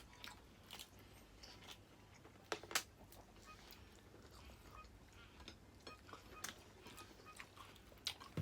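Quiet eating sounds: faint chewing and mouth clicks, with a few sharper clicks and ticks from seafood being eaten by hand.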